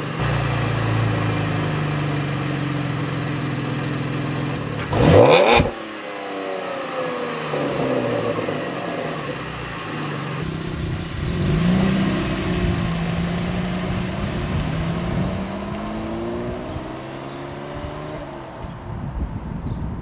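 Chevrolet Camaro V6 with its mufflers deleted, running as the car is driven, the engine note rising and falling with throttle and gear changes. A brief loud burst about five seconds in.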